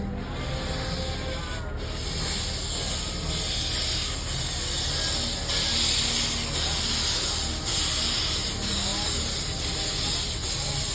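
Steam hissing from a miniature-railway steam locomotive, coming in uneven surges about a second long that start about two seconds in.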